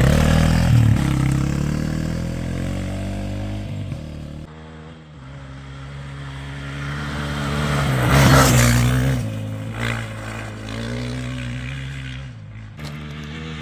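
Dirt bike engine running and revving, its pitch rising and falling, loudest about eight seconds in.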